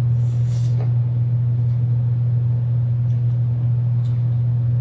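A steady, loud low hum that does not change, with a few faint, brief soft noises over it, the first a short hiss about half a second in.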